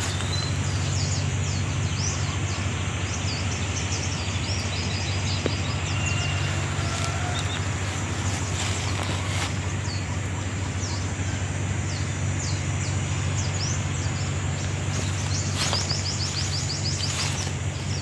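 Small birds chirping in many short, quick calls, with a denser run of calls near the end, over a steady low hum and hiss.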